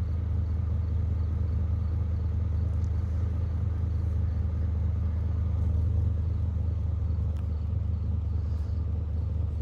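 Pickup truck engine idling steadily: a low, even hum.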